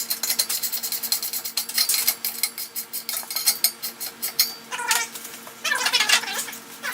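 Rapid metallic clicking of a hand tool working metal. Near the end a cat meows twice, with rising and falling calls.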